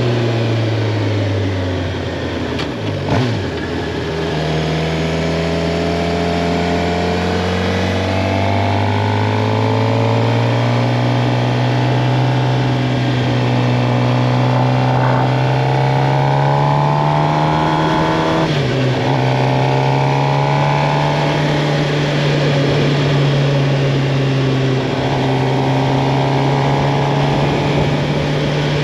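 2023 Suzuki GSX-R 750's inline-four engine under way: the revs fall over the first few seconds, then climb slowly and steadily for about fifteen seconds. About two-thirds of the way through they drop sharply, as at a gear change, and then hold steady.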